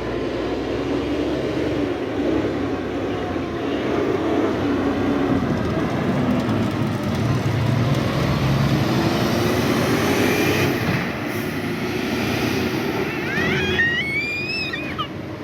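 Loaded heavy truck's engine running steadily as it pulls past, its pitch rising and falling. A brief high wavering squeal comes near the end.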